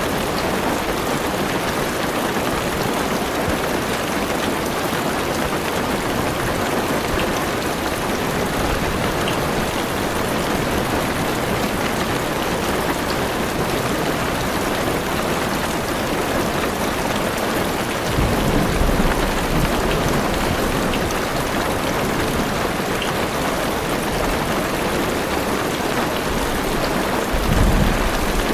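Heavy rain drumming steadily on a car's roof and windows, heard from inside the car. Low thunder rumbles twice, about two-thirds of the way through and again near the end.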